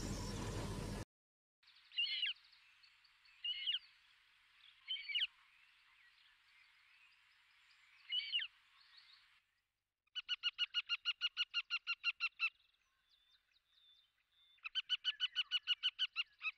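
Bird calls: four short chirping calls a second or more apart, then two runs of rapid repeated notes, about eight a second. A second of rushing background noise cuts off suddenly at the start.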